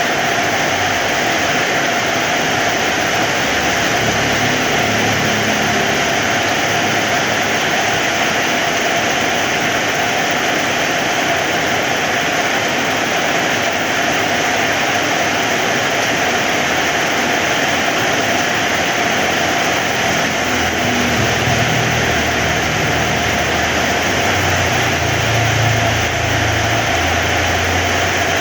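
Heavy rain falling steadily, a dense, even hiss. A low rumble comes in briefly a few seconds in and again through the second half.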